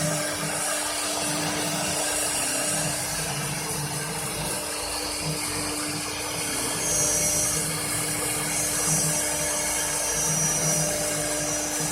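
Spindle of a Woodstock 1530 three-axis CNC router running with a steady whine over a dense, even machining noise.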